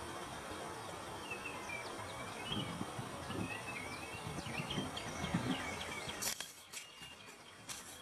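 Steady outdoor background noise with a small bird chirping repeatedly in short, bending calls through the middle. About six seconds in, the background drops away and a few sharp clicks follow.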